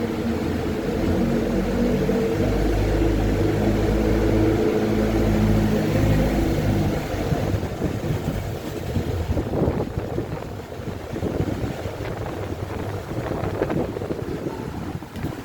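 Typhoon wind and rain buffeting the microphone. For about the first seven seconds there is a steady droning hum under a heavy low rumble. The rest is gusting wind with scattered knocks and rattles.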